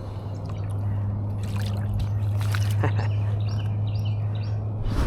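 A steady low hum from a small motor, getting louder about a second in. Over it, water trickles and splashes a few times, and a bird chirps repeatedly in the second half.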